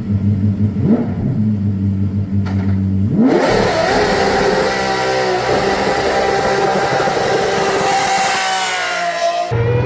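A hypercar engine runs at a steady low note. About three seconds in it revs sharply up to a high pitch and holds there under hard acceleration for several seconds, then cuts off suddenly near the end.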